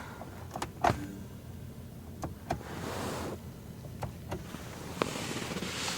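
Interior switches in a car cabin clicking in quick pairs, pressed on and off, three times with a single click near the end. A short soft rushing sound comes about halfway.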